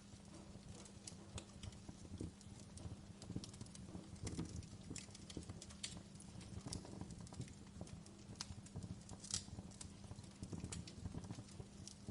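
Fire crackling: irregular sharp pops and snaps over a low steady hum, with one louder pop about nine seconds in.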